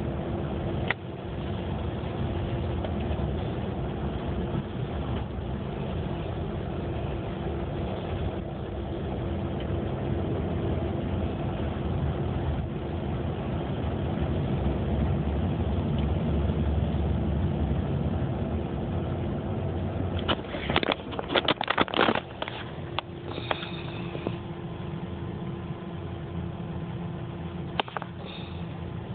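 A car running, a steady low engine and road rumble with a constant hum. About two-thirds of the way through there is a cluster of clicks and rattles, followed by a couple of short high tones.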